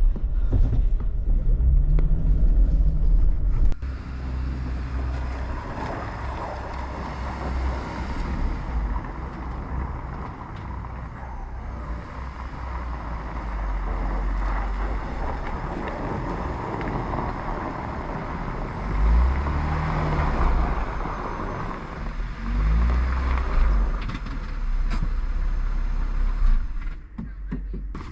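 A Jeep driving, with a low engine and road rumble. The rumble is loudest for about the first four seconds, then settles into a steadier, somewhat quieter mix of rumble and road noise with occasional low swells.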